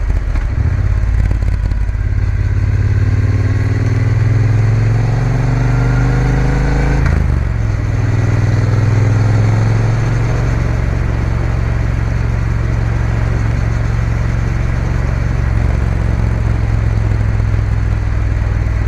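Triumph Bonneville T120 parallel-twin engine accelerating, its pitch rising steadily for about six seconds. About seven seconds in there is a gear change, and the engine then runs on at a steady pace.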